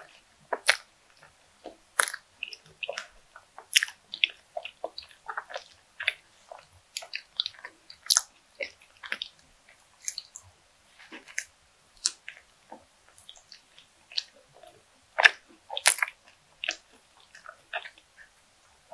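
Close-up eating sounds of a person biting and chewing a soft cream-filled bread bun: irregular short mouth smacks and clicks throughout.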